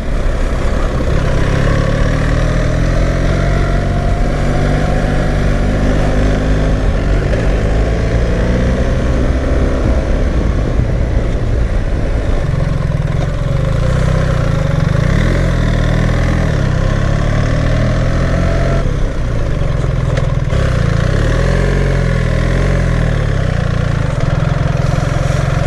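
BMW R 1300 GS boxer-twin motorcycle engine running under way. Its pitch rises and falls with throttle and gear changes.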